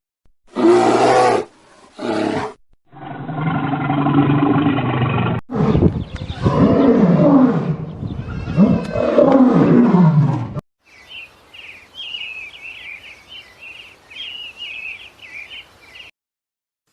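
A run of spliced animal calls: two short calls, then a low drawn-out call, then long calls that slide down in pitch; after about ten seconds they give way to faint, high repeated chirping.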